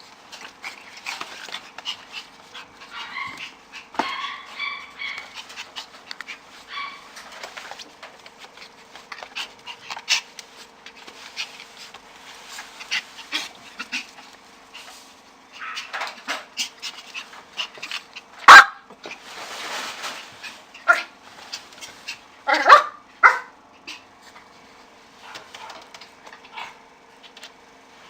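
Puppies yipping and whimpering in short bouts, with scattered clicks and scratches between them; a few sharper barks come near the end, and one loud sharp knock about two-thirds of the way through. A faint steady hum runs underneath.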